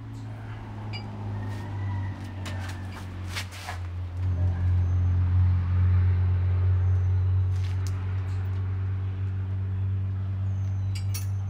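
A steady low machine hum, rising in level about four seconds in, with a few sharp metallic clicks and clinks of hand work on the hinge bolts and nuts.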